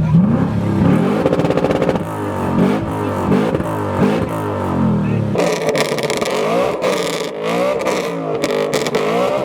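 Car engines revving hard, the engine note climbing and dropping back again and again. About five seconds in the sound changes abruptly to another engine revving.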